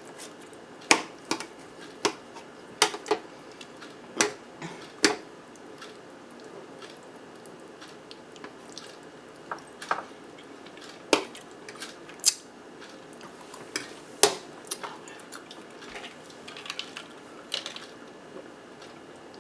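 Close-miked eating: chewing and biting of cheesy zucchini boats with ground turkey, with scattered sharp clicks of cutlery against a plate.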